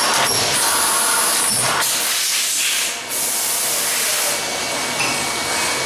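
Steady, loud hissing noise with sudden shifts in character about two and three seconds in.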